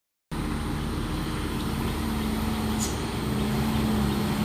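A road vehicle's engine running steadily as traffic passes on a hill climb, its hum slowly growing louder, with a brief hiss about three seconds in.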